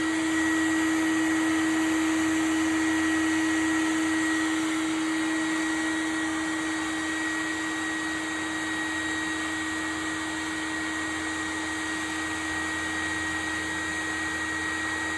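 Bee vacuum running steadily with a constant hum and a higher whine, used to suck up a swarm of live honeybees.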